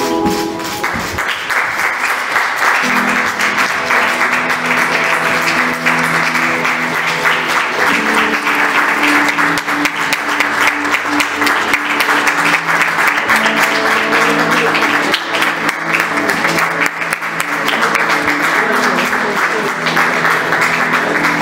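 Audience applauding steadily, starting about a second in, over music with held notes that change every few seconds.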